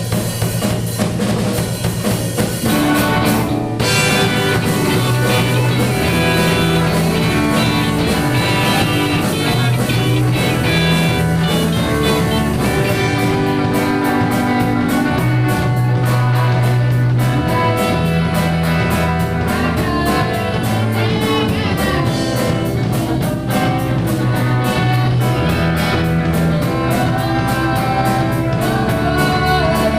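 Band music with guitar, bass and drum kit playing steadily.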